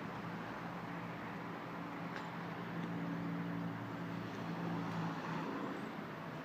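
Vehicle engine running steadily with a low hum, against an even background of outdoor noise.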